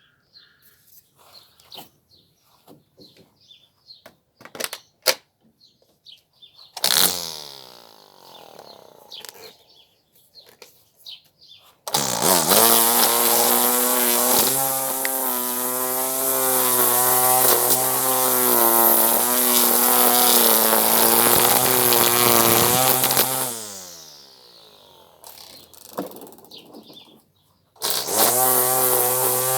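Ryobi One+ 18V cordless strimmer/edger: a brief blip of its electric motor about seven seconds in, then it runs for about eleven seconds with its pitch wavering as the line trims grass, winds down, and starts up again near the end. Before it starts there are light handling clicks.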